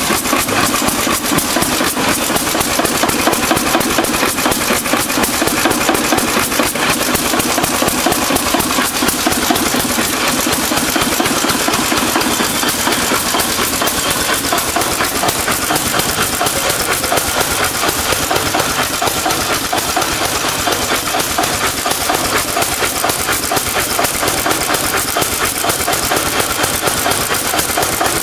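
Ruston Hornsby Class BPR 4 BHP stationary engine running steadily, freshly started from cold, with a rapid, even beat of firing strokes.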